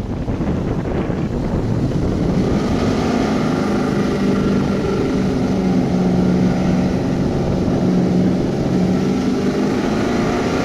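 A vehicle engine running hard at a nearly steady pitch, with wind rumbling on the microphone at first.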